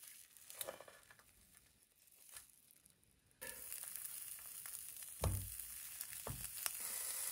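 Food frying in a nonstick pan on a portable gas stove: nearly quiet with a few faint ticks at first, then steady sizzling starts suddenly about three and a half seconds in. Two soft knocks come as pancakes are laid in the hot pan.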